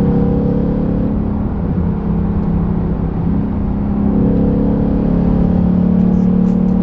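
Ford Mustang GT's V8 engine droning at a steady cruise, easing a little and then building again about four seconds in.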